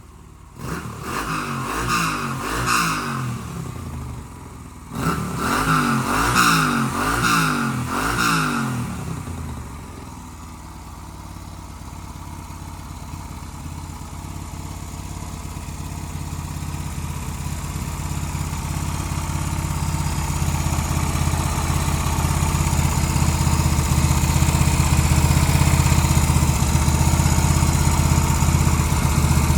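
Yamaha Renaissa's 250 cc V-twin being cranked on the electric starter in two bursts of about four seconds each; on the second try it catches about nine seconds in and settles into a steady idle that slowly gets louder.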